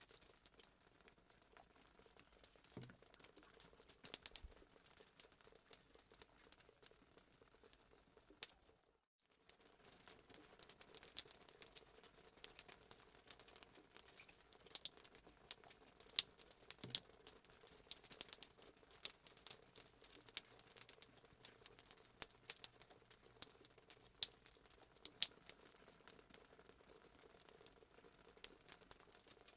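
Fireplace sound effect: faint, irregular crackles and pops of a burning wood fire, with a brief silent gap about nine seconds in.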